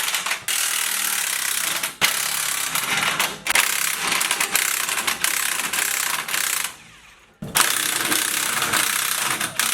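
Power impact wrench running in long bursts with short breaks, a rattling hammer as it works bolts loose while the old rear suspension parts come off.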